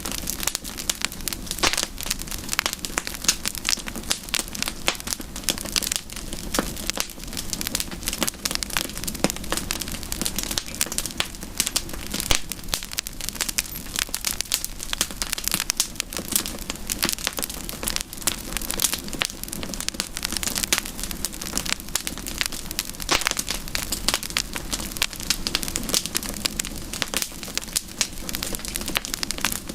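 Wood campfire burning with steady, dense crackling and snapping: many irregular sharp pops over a soft hiss of flames.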